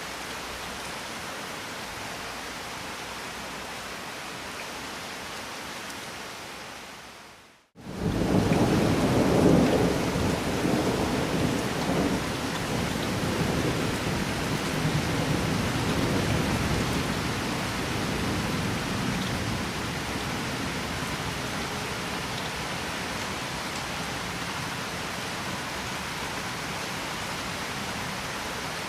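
Steady rain falling. About a quarter of the way in it fades out briefly, then comes back with a long rolling rumble of thunder that slowly dies away under the continuing rain.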